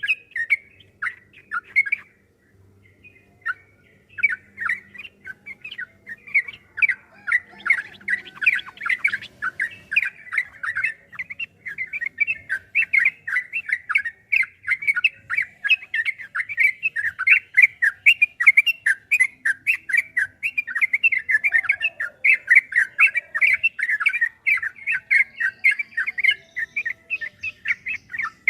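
Yellow-vented bulbul (trucukan) singing a long, rapid run of chattering notes. There is a brief pause about two seconds in, then the song runs on unbroken.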